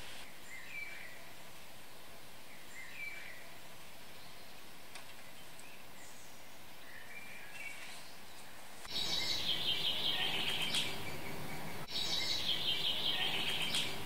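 Garden songbirds: a few faint, short chirps, then about nine seconds in a louder, rapid run of repeated high notes, heard twice with a short break between.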